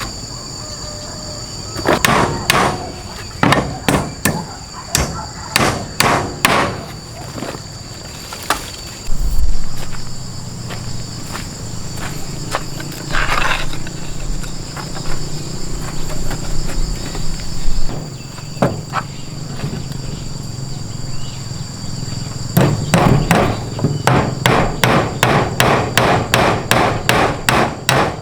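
Hammer blows: a run of strikes about half a second to a second apart, a few scattered blows in the middle, then a fast run of about three blows a second near the end. Steady high insect drone underneath.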